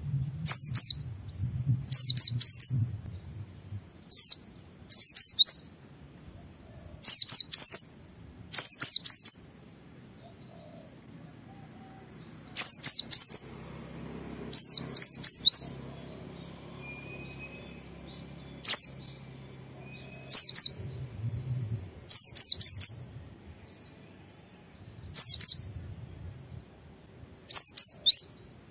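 White-eye (pleci) singing short, high, chattering phrases, mostly in pairs, every couple of seconds with brief pauses between.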